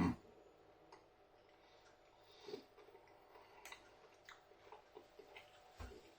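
Faint chewing of a white chocolate bar, with scattered small crunches and clicks.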